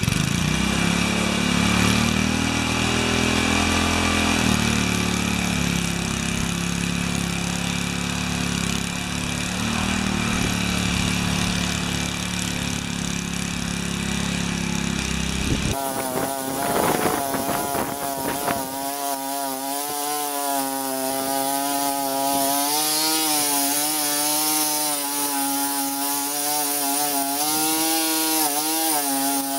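Gas rototiller's small engine running as it churns through garden soil. About halfway through the sound changes abruptly to a higher, steadier whine that wavers up and down in pitch.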